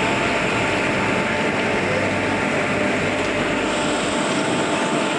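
A train in motion: steady, loud running noise with no breaks or distinct knocks.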